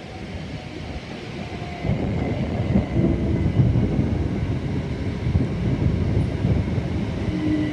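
Class 387 Electrostar electric multiple unit running into the platform. A low rumble grows louder about two seconds in, and a faint whine comes in near the end.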